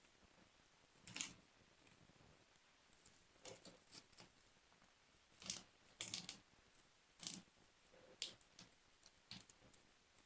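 Slime being kneaded and stretched by hand, giving faint, irregular sticky clicks and pops.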